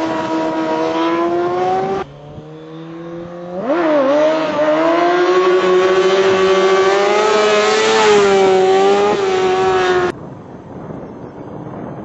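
Kawasaki motorcycle engine held at high revs, dropping to a lower, quieter running for a couple of seconds, then revved up sharply about four seconds in and held high and fairly steady for about six seconds, as when riding a wheelie on the throttle. It cuts off suddenly near the end, leaving a quieter engine sound.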